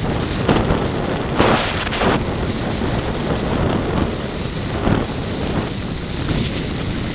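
Steady wind buffeting a moving camera's microphone, with a constant rush of road noise.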